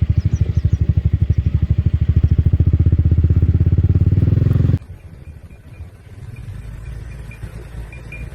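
Motorcycle engine running at low revs with a fast, even putter, cutting off abruptly about five seconds in. Then comes a much quieter background with a faint low hum and a faint, regular high ticking.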